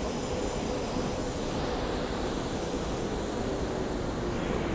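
SEPTA Regional Rail electric train on the track beside the platform, a steady rumble with a faint hum.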